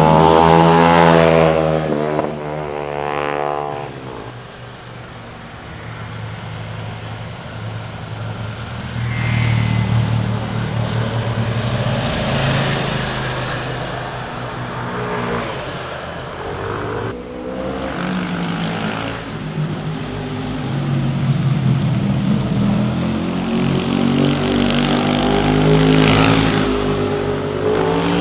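Sport motorcycles passing one after another, their engines revving up and easing off. The pitch rises sharply about three seconds in, and the engine sound swells again near the end as another bike approaches.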